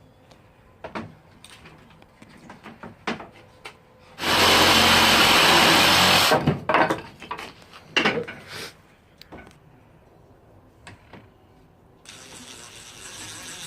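Electric power tool run loudly for about two seconds on a wooden bird-feeder part, amid knocks of wood pieces being handled; near the end a steady motor whine starts and slowly rises.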